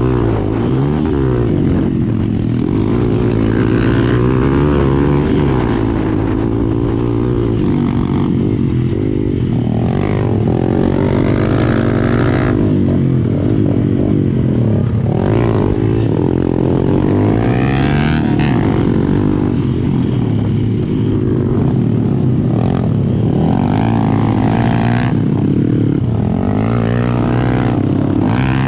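Several dirt bike engines running at once, their pitches wavering up and down as throttles are blipped, with a few louder revs.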